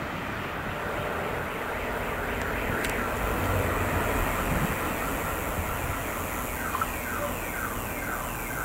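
Steady rumble of a commuter train running on the tracks. From about seven seconds in, a repeating falling electronic alarm tone sounds, about two a second.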